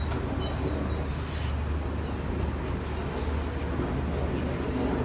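Diesel-hauled passenger train moving slowly past along a station platform, with a steady low hum and an even running noise.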